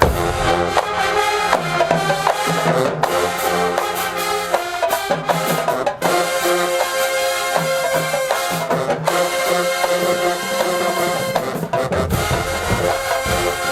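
HBCU marching band playing full out: massed trumpets and trombones holding loud chords over a drumline's steady beat.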